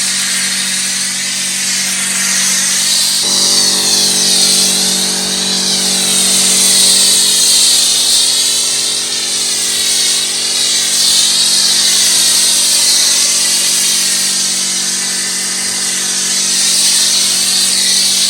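Pressure washer running steadily: the pump motor hums while the water jet hisses against the car. About three seconds in, the hum becomes fuller.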